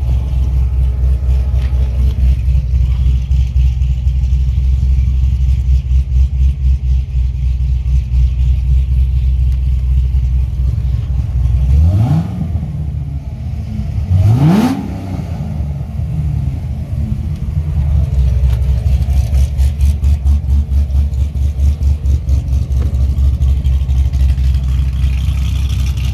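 Supercharged 6.2-litre LS9 V8 of a 2009 Chevrolet Corvette ZR1, built to about 1000 wheel horsepower, idling with a steady pulsing beat. About midway it is blipped twice, the pitch sweeping up and dropping back each time, the second rev reaching a little higher.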